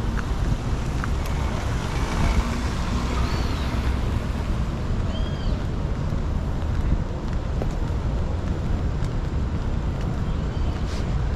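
Steady city street traffic on a rain-wet road: engines and tyres with a continuous low rumble. A few short high chirps sound over it.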